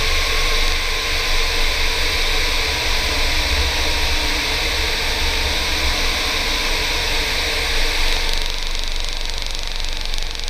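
Piper Cherokee 140's four-cylinder Lycoming engine and propeller running steadily, heard as loud cabin noise with a deep drone and a hiss; the hiss eases a little about eight seconds in.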